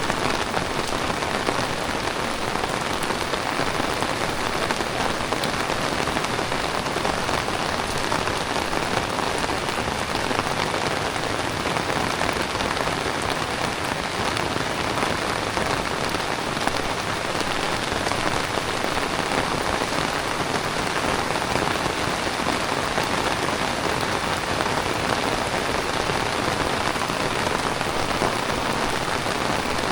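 Heavy tropical rain falling steadily, a dense even hiss of drops hitting the ground and surfaces.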